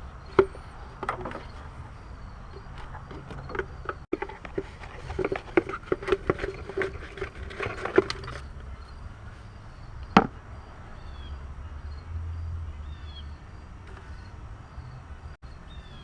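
Scattered clicks, knocks and light rattles of hand tools and car parts being handled during engine-bay work, busiest in the middle, with one sharp click about ten seconds in.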